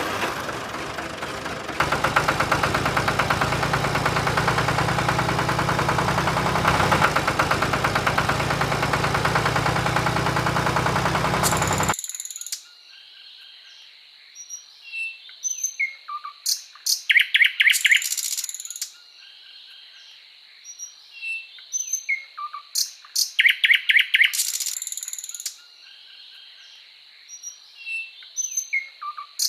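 A small engine running steadily, which cuts off abruptly about twelve seconds in. Then birds chirp and tweet in groups that repeat the same pattern about every seven seconds, like a looped recording, over a faint steady high whine.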